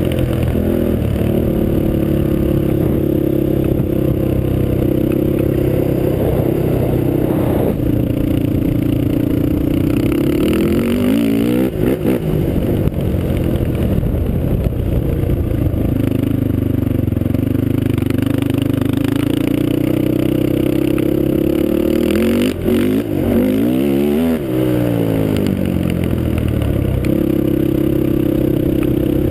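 Honda TRX450R quad's single-cylinder four-stroke engine running loud through a MotoWorks exhaust. The engine note holds steady for long stretches, dipping and climbing back about ten seconds in and again near twenty-four seconds.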